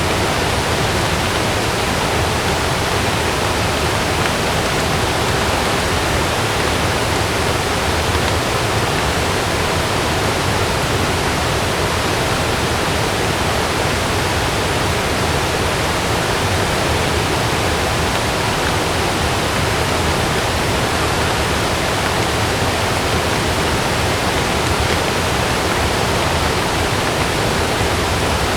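Heavy rain falling in a steady, even rush, with no thunder or separate gusts standing out.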